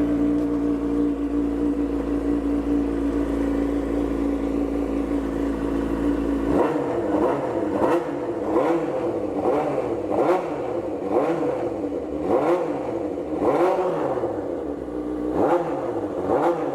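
2005 Suzuki GSX-R600's inline-four engine idling steadily, then revved in a run of quick throttle blips, about one a second, starting about six and a half seconds in.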